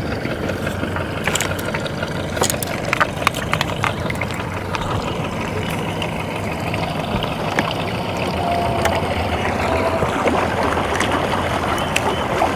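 Boat motor running steadily, with water lapping and knocking against the hull.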